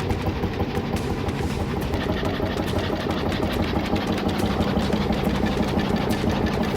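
35-horsepower crude oil engine running steadily at about 400 rpm, firing in an even, regular beat of knocks.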